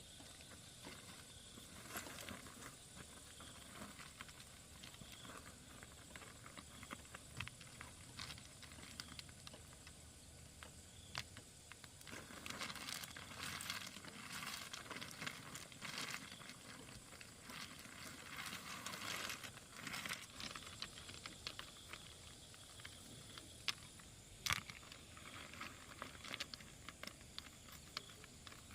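Faint rustling and crinkling with scattered small clicks, busier and a little louder through the middle, and a few sharper clicks near the end.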